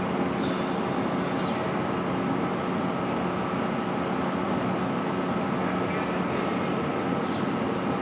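A steady mechanical hum that holds a few fixed tones throughout. Two short, high bird calls sweep downward over it, one about half a second in and one near the end.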